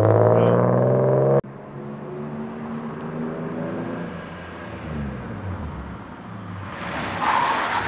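BMW E36 engine revving loudly with a rising note that cuts off abruptly about a second and a half in, then running more quietly at lower revs as the car rolls slowly. Near the end a hissing scrub of tyres on asphalt as the new hydraulic handbrake locks the rear wheels and swings the car round.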